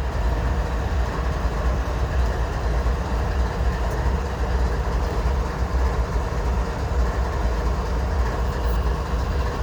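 Freight train rolling past at a crossing: a steady rumble of steel wheels on rail as its last cars go by.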